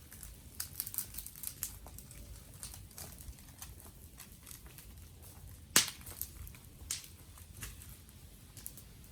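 Wood fire crackling: irregular sharp pops and clicks, with one much louder snap a little past halfway.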